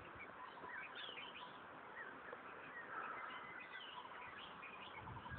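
Wild birds chirping: many short, quick calls overlapping, faint, over a steady outdoor background hiss.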